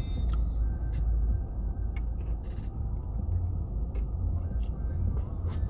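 Steady low rumble inside a car cabin, with scattered small clicks and knocks.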